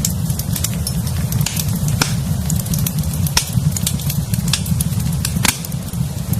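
Wood fire in a fireplace burning with a steady low rumble and frequent sharp crackles and pops, several a second.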